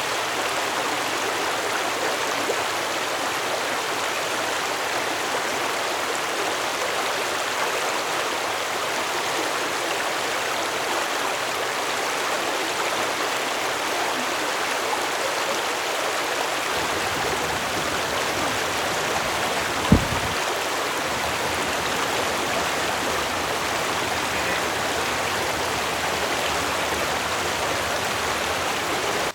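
Waterfall rushing steadily, an even hiss of falling water. A single brief low thump comes about two-thirds of the way through.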